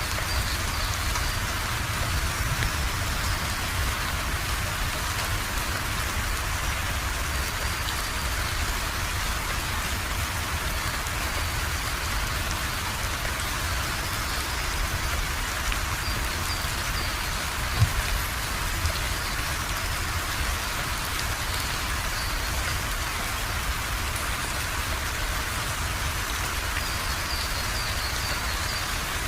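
Steady rain falling, an even hiss of drops on a surface, with a single low thump about two-thirds of the way through.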